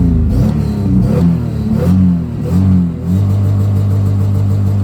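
1998 Chevrolet Camaro 3.8 L V6, revved in neutral: three quick blips that rise and fall. From about three seconds in it is held at a steady high pitch, hitting the rev limiter, before it drops back.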